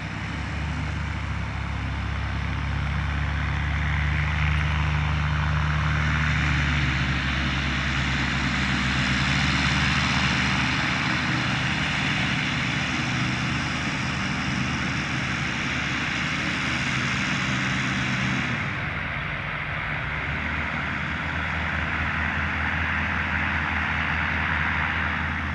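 Blackshape Prime light aircraft's Rotax 912 engine and propeller running steadily at power. The sound grows slightly a few seconds in and turns duller, losing its hiss, about eighteen seconds in.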